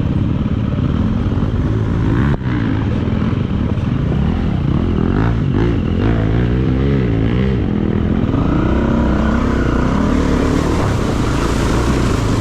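Dirt bike engine revving up and down under changing throttle over rough ground, with a brief drop about two seconds in.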